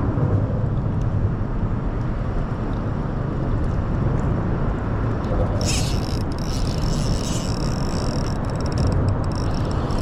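A fishing reel whirs as line is slowly reeled in, starting a little past halfway, over a steady low rumble.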